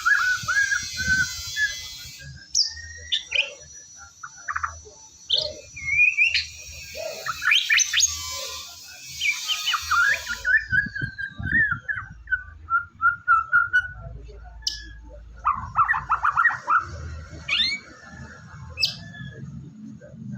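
White-rumped shama singing a long, varied song of clear whistles, quick pitch sweeps and trills, broken by stretches of harsh rasping chatter. This is the persistent full song that keepers call 'gacor'.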